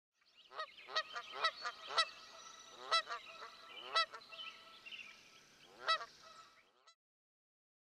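Birds calling: a run of loud, rising calls about a second apart over a chorus of fainter ones, stopping abruptly about seven seconds in.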